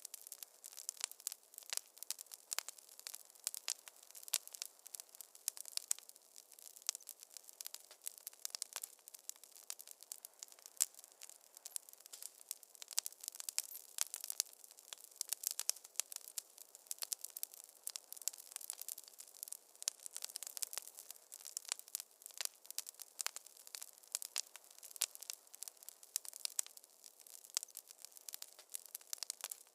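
Wood fire crackling in a fireplace: dense, irregular sharp pops and snaps over a faint steady hiss.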